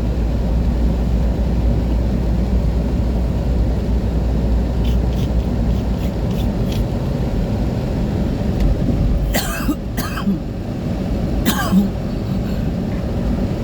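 Steady low rumble of a car driving on a wet road, heard from inside the cabin. Three short, sharp noisy bursts come near the end, two close together and one a moment later.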